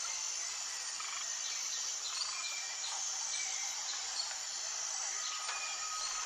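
Birds chirping in short, scattered calls over a steady high-pitched drone. A thin, steady tone comes in about five seconds in.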